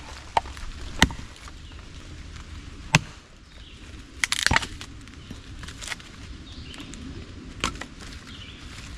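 Estwing Sportsman's hatchet chopping and splitting firewood into quarters: a series of sharp, irregularly spaced knocks, about six, with a cluster of quick strikes near the middle.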